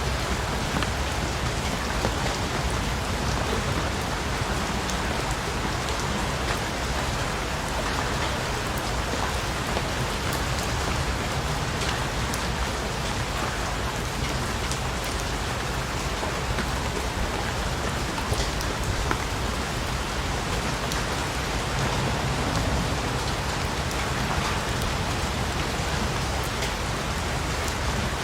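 Steady rain falling on surfaces: an even wash of rain noise with faint scattered drop ticks.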